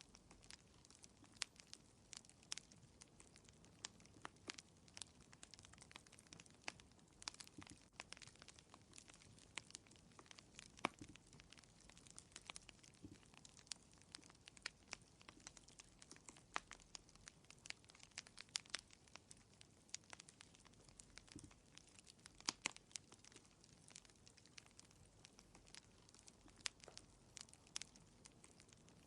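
Wood fire crackling in a fireplace: faint, frequent irregular pops and snaps over a soft hiss.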